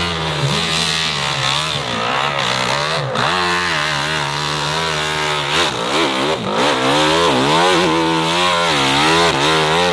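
Racing motorcycle engine revving hard, its pitch climbing and dropping again and again as the throttle opens and closes through the gears, over a steady low hum.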